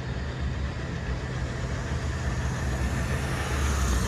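Diesel freight locomotives running with a steady low rumble that grows slightly louder near the end.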